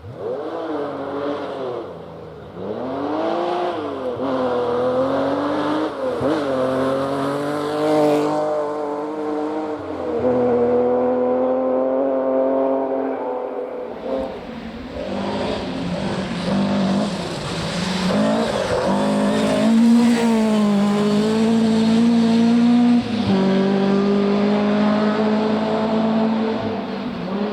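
Rally car engine driven hard along a stage, revs climbing and dropping repeatedly as the driver shifts and lifts off. From about halfway the sound gets fuller and noisier as the car comes closer.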